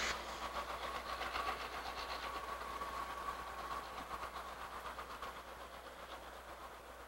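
Freight train cars rolling away, wheels clacking over the rail joints with a steady high tone that dies out about halfway through. The whole sound grows fainter as the train recedes.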